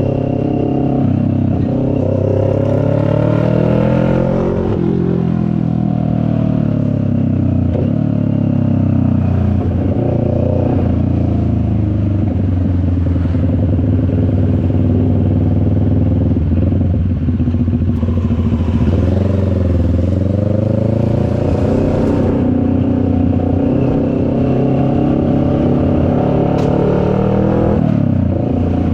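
CFMoto 400NK's parallel-twin engine running under way, its revs rising and falling with throttle and gear changes: a climb that drops off about four seconds in, a dip and climb again around twenty seconds in, and another drop near the end.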